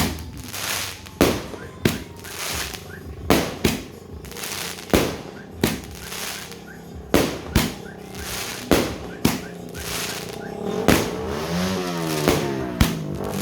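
A 120-shot consumer fireworks cake firing shot after shot: sharp bangs about once a second, some in quick pairs, each followed by a short crackling hiss. Music comes in near the end.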